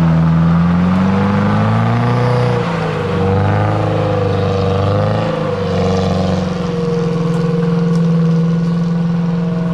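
Off-road 4x4's engine pulling under load up a steep, tight uphill bend, its revs rising and falling over and over.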